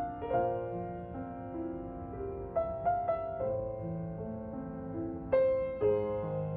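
Background piano music: a slow melody of single notes and chords, each struck and left to ring.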